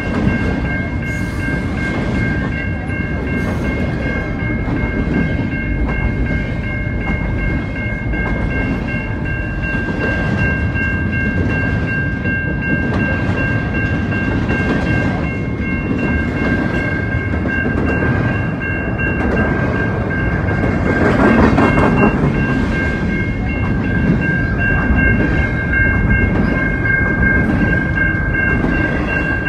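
CN double-stack container freight train rolling past at speed, its wheels on the rails making a steady rumble with clickety-clack, louder for a stretch about two-thirds through. Over it the level-crossing warning bell rings steadily as a high, slightly pulsing tone.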